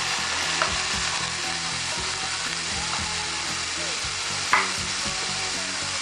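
Diced potatoes sizzling steadily in hot olive oil in a frying pan. A brief knock of a utensil comes about four and a half seconds in.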